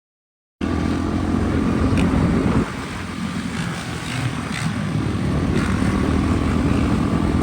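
Dirt bike engine running, cutting in suddenly about half a second in; the engine eases off a little after about two seconds and then builds again.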